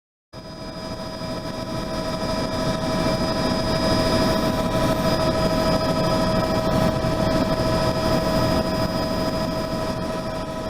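Helicopter running steadily: a constant whine of several fixed tones over a broad rushing noise, with no change in pitch, swelling in and then fading away near the end.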